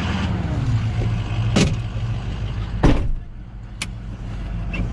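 Truck engine running steadily, its revs dropping in the first second. Four sharp metallic knocks or clanks come at intervals of about a second over it.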